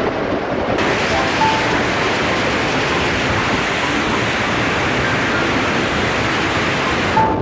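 Steady rush of wind on the microphone of a moving motorcycle, with road and engine noise underneath; the hiss brightens about a second in and drops away near the end.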